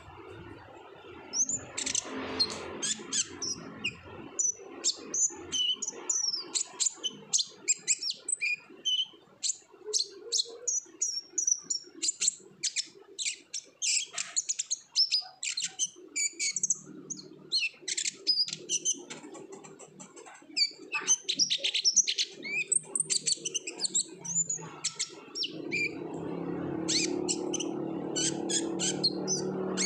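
Kolibri ninja sunbird singing a fast, continuous run of high-pitched chirps and trills, in the excited full song that keepers call gacor ngobra, used as a lure to prompt other birds to sing. A low steady hum comes in near the end.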